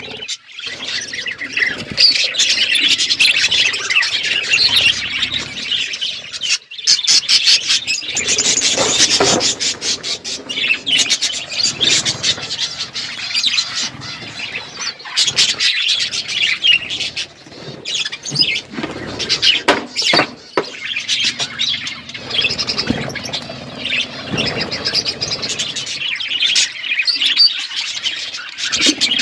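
A flock of budgerigars chattering without a break: a dense mix of high-pitched chirps, warbles and short sharp calls.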